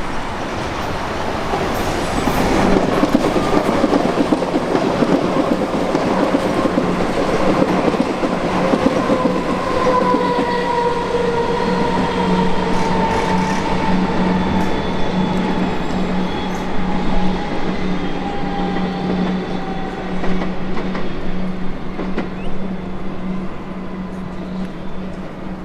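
Suburban electric train running past, with loud wheel-on-rail noise, a steady low hum, and a motor whine that falls slowly in pitch through the middle.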